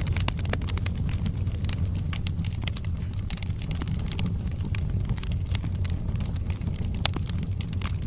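Wood fire burning in a fireplace: a steady low rumble of the flames with frequent small crackles and pops from the burning logs, one sharper pop about seven seconds in.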